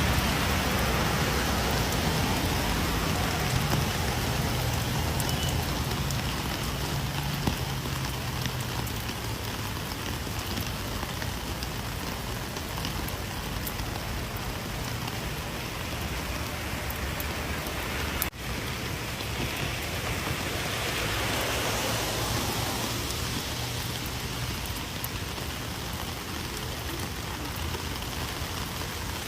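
Steady rain falling, a continuous hiss with scattered individual drop hits; the sound briefly cuts out about two-thirds of the way through.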